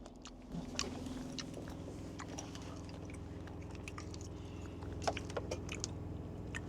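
Scattered small clicks, knocks and rustles of food and containers being handled, over a steady low hum that gets a little louder about half a second in.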